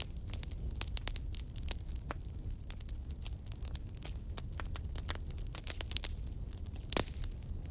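Wood fire crackling in a fireplace: irregular sharp pops and snaps over a low steady rumble of flames, with one louder pop about seven seconds in.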